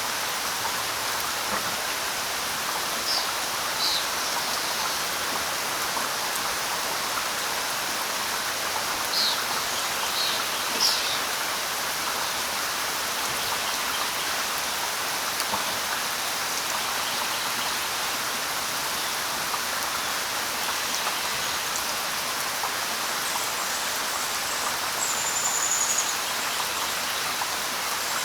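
Steady light rain falling, an even hiss, with a few short bird chirps in the first half and a thin high whistle near the end.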